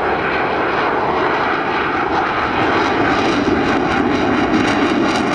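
Airplane engine noise from a fixed-wing aircraft flying by, loud and steady.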